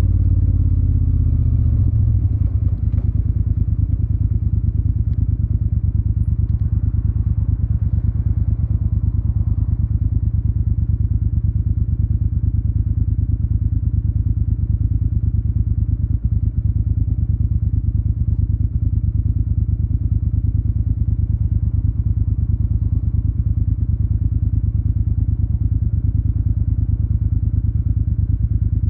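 Yamaha TDM 900 parallel-twin engine through an Akrapovic exhaust: revs drop away over the first couple of seconds, then it settles into a steady, even, low idle with a pulsing exhaust note.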